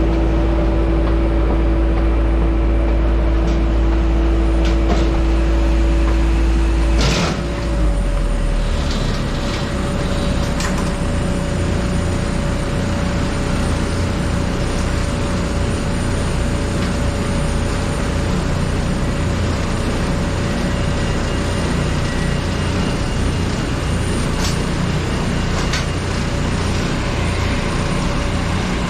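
Ground-handling machinery running beside an airliner being unloaded: a steady low hum with a held tone cuts off abruptly about seven seconds in with a clunk, leaving a steady low rumble.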